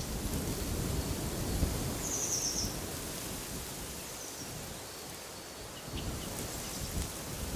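Wind gusting outdoors with a low rumble over a steady hiss. A bird sings a short, rapid trill about two seconds in, and a few faint chirps follow.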